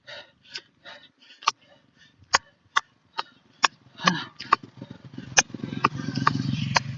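A cyclist breathing hard through a steep uphill climb, with sharp clicks about twice a second and a low rumble building in the last two seconds.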